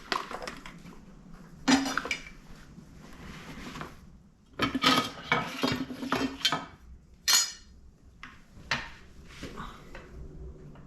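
Metal hand tools clinking and clattering, a series of sharp knocks and clinks, the busiest run about halfway through.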